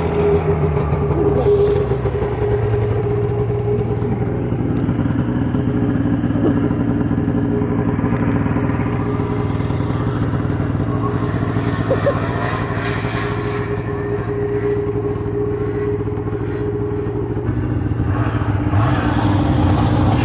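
Snowmobile engine running at a fairly steady speed, its pitch holding nearly level.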